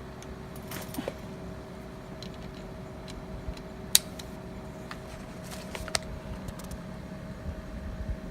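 Scattered metallic clicks and clinks of tools and engine parts being handled, with one sharp click about four seconds in, over a steady electrical hum.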